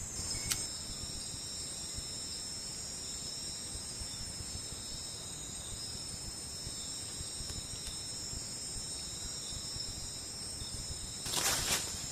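Steady night chorus of crickets and other insects, several shrill high tones held without a break. About eleven seconds in comes a short burst of rustling noise.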